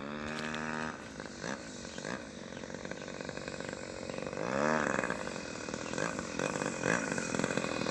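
Gasoline engine of a radio-controlled model airplane buzzing, its pitch dipping and then rising again about halfway through as the throttle changes, and growing louder near the end.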